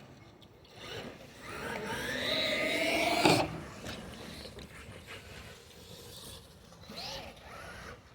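RC monster truck motor whining up in pitch as the truck accelerates for about two seconds, then cutting off suddenly with a knock just after three seconds in. A shorter whine follows near the end.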